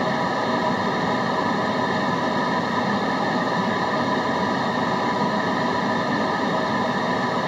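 Steady, unchanging white noise: an even hiss with a faint steady hum in it, with no breaks or events.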